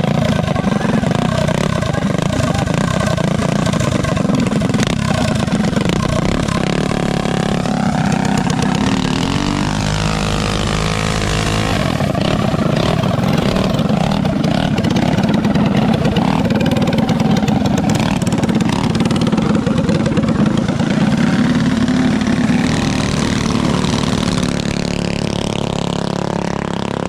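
Small mini bike engines running hard and revving, their pitch rising and falling as the bikes race.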